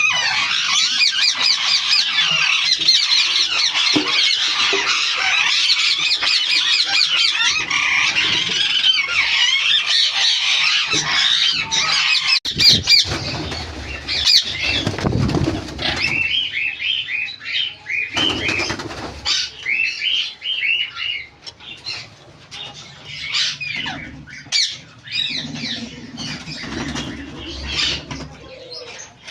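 A flock of ringneck parakeets chattering and squawking, many calling over each other for the first twelve seconds or so. After that the calls thin out into separate squawks, with a few lower rustling sounds around the middle.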